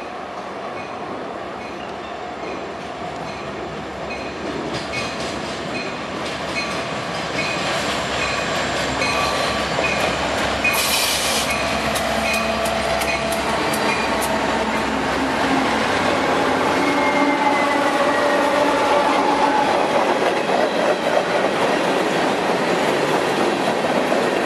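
CSX EMD diesel locomotives pulling under power as they pass close by, growing louder, followed by hopper cars rolling past with wheels clacking over the rail joints and a short squeal. A bell dings nearly twice a second through the first half.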